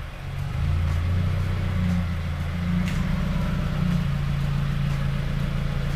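2016 Subaru WRX's turbocharged 2.0-litre flat-four engine running steadily at low revs, a low even hum, as the car is driven slowly.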